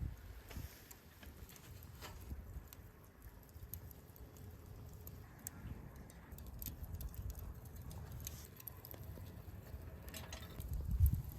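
Small wood fire burning, with irregular light crackles and pops over a low rumble. A louder low rumble swells near the end.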